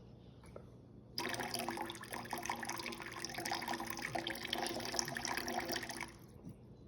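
Water running from a tap into a sink, starting abruptly about a second in and stopping suddenly about five seconds later.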